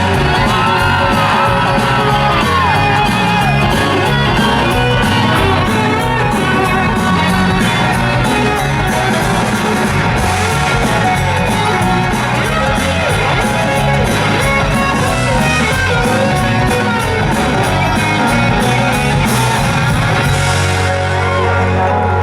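Live country band playing an instrumental break, with a lead instrument's bending melody line over bass and drums.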